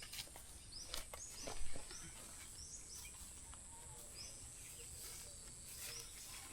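Rural ambience: a small bird giving short high chirps about once a second over a steady high-pitched insect drone, with a few faint knocks.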